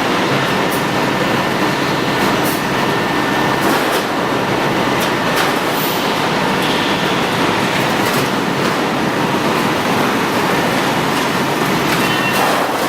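Garage door panel roll forming machine running: a steady, loud mechanical rumble with scattered sharp clicks and knocks.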